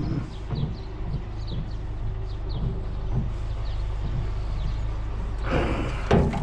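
Steady low rumble of an idling vehicle engine, with a small bird chirping short high notes again and again. About five and a half seconds in comes a loud clatter of knocks and scraping.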